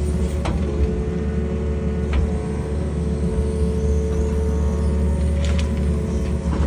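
Excavator's diesel engine running steadily with a deep hum, with a few sharp knocks about half a second in, two seconds in and near the end.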